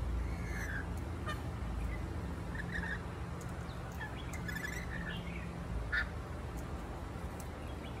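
Short, scattered bird calls and squawks, a few at a time, with a quick run of clicky chatter about halfway through, over a steady low hum.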